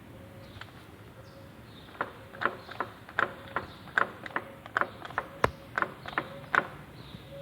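Ford Courier's front half-shaft rocked by hand, giving sharp clicks and knocks about two a second from about two seconds in. The clunks come from play in the inner tripod joint and its housing, which the mechanic takes to be probably worn.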